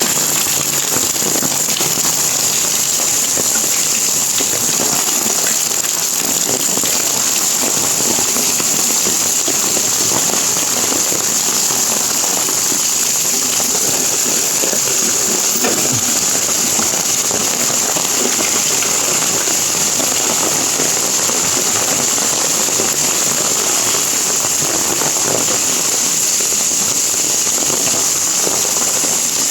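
Heavy rain falling on leaves, puddles and a path: a steady hiss with many close, crackling drop impacts.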